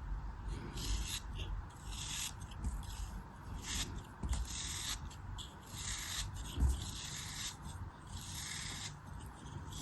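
A tool cutting through a crumbly craft material in a series of short, crisp scraping strokes, about ten of them, roughly one a second.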